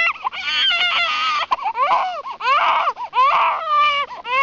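A baby crying in a run of short, high-pitched wails that rise and fall in pitch.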